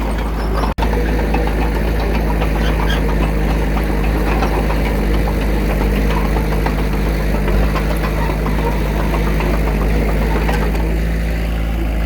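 Diesel engine of an earthmoving machine running steadily with a busy clatter, cut by a momentary dropout under a second in.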